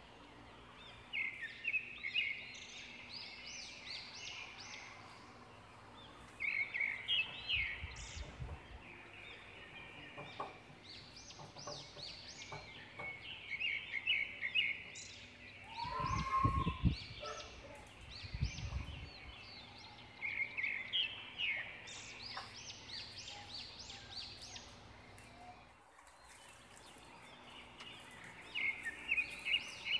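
Bird calls in the background: short, rapid chirping phrases repeating every second or two, with a few low bumps from handling near the middle.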